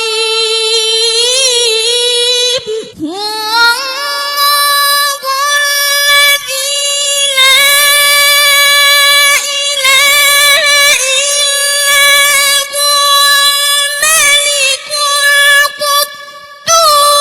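A single high voice singing unaccompanied in long held notes with ornamental turns and slides, pausing briefly between phrases.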